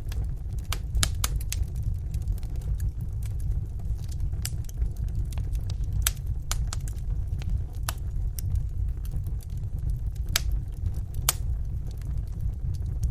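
Wood fire burning in a fireplace, with a steady low rumble and irregular sharp pops and crackles from the burning logs.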